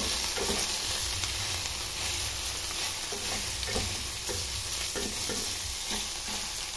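Chicken pieces with garlic and onion sizzling as they fry in a stainless steel pan, with a wooden spatula stirring and turning them and scraping against the pan now and then.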